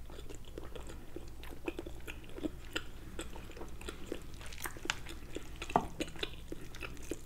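Close-miked chewing of soft, cooked cabbage and sausage: scattered wet mouth clicks and smacks. About four seconds in, a fork picks up food from a wooden bowl with a few light clicks.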